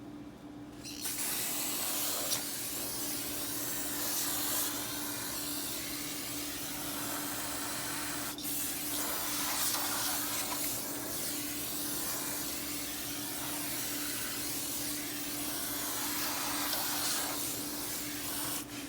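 Aerosol insecticide spray hissing out of a can in one long spray of about seventeen seconds, with a brief break about eight seconds in.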